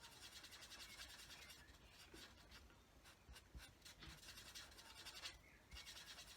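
Faint scratchy strokes of a marker tip colouring back and forth on card.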